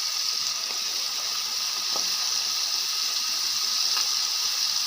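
Flour-dusted calamari rings deep-frying in hot oil: a steady sizzle.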